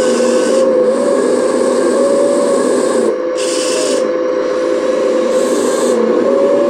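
Radio-controlled model excavator running: a steady motor and pump whine with a hiss whose high part cuts out and comes back several times as it works.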